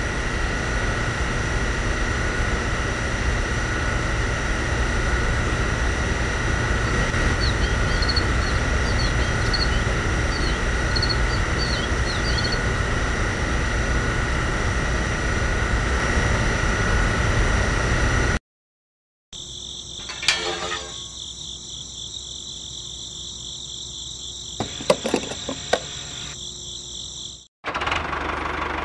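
Small electric pump motor of a model fuel pump running steadily with a whine while it fills a toy tanker, then cutting off. After a short gap, a quieter, higher-pitched motor hum follows, with a few clicks, and stops near the end.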